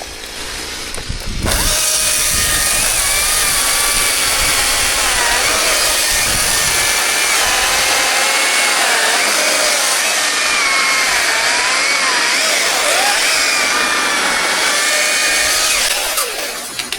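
Two-stroke chainsaw revved up to full throttle about a second and a half in, then cutting steadily, its engine pitch dipping and recovering as the chain loads in the wood. It drops back off the throttle near the end.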